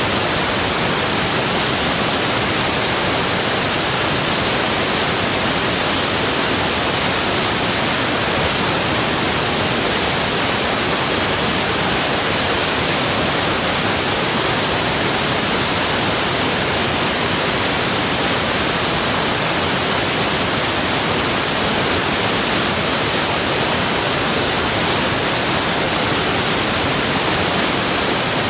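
Rushing water running steadily: an even, full-range hiss with no change in level and no other events.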